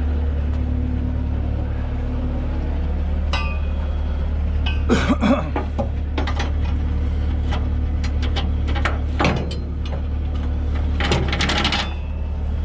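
Steel tow chains clinking and rattling in several separate bursts as they are handled and hooked up to tie the load down. A heavy engine idles steadily underneath.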